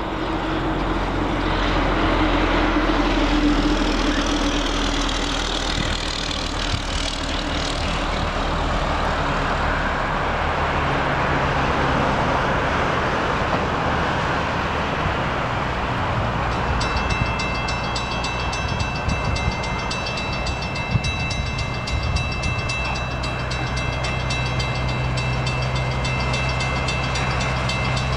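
Diesel locomotives of an approaching freight train: a steady low engine drone under a rushing noise. About two-thirds of the way through, a grade-crossing bell starts ringing.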